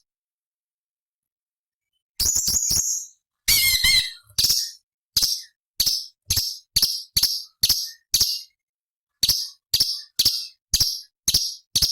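Orange-bellied leafbird (cucak cungkok) calling. After a short silence it gives a fast harsh rattle and a brief warbling phrase, then a run of sharp, high notes about two a second, broken by one pause.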